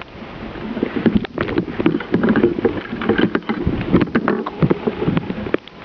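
Irregular rustling and crunching close to the microphone, with many short crackles: handling noise.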